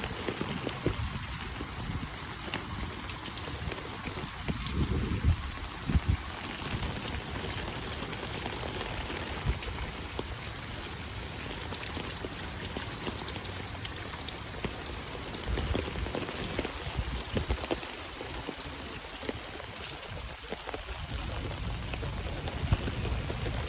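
Heavy downpour of rain, a steady dense hiss of drops hitting hard surfaces, with a couple of short low thumps about five and six seconds in.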